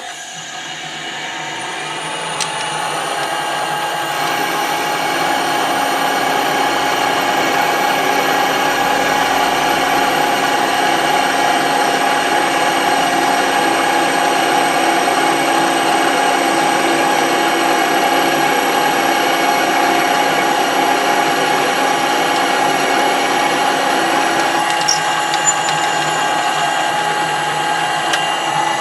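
Metalworking machine tool motor and drive running, with a steady whine at several pitches. It comes up to full loudness over the first few seconds and then holds steady.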